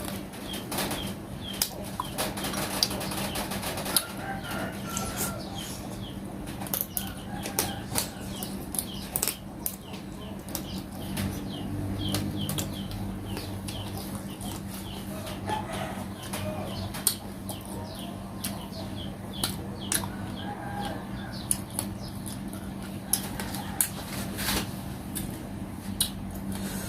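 Close-up eating sounds: many small wet clicks, smacks and sucks as soy-pickled raw crab and mantis shrimp are chewed and sucked from the shell, over a steady low hum.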